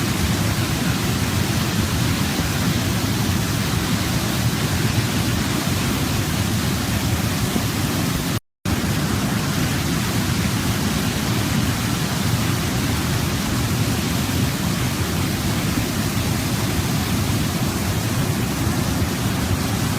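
Waterfall running with a steady, even rush of falling water, cutting out completely for a split second about eight seconds in.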